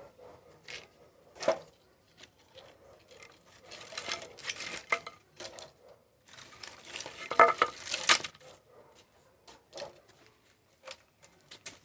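Sticks and twigs being handled and knocked together while a campfire is laid: scattered clicks and clatters, with a longer, louder rustling clatter about seven seconds in.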